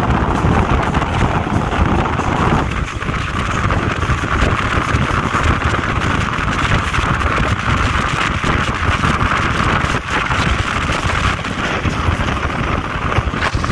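Express train coach running fast, heard from its open doorway: a steady rumble of wheels on the rails under rushing wind on the microphone, the hiss growing stronger about three seconds in.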